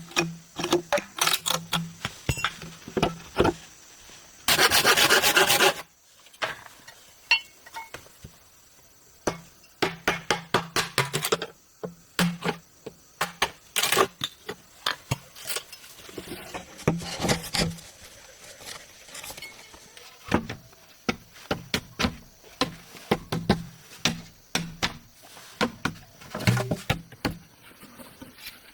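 Bamboo being worked with hand tools: scattered knocks and scrapes, with a dense run of quick sawing or rasping strokes about five seconds in and another cluster of strokes near the middle.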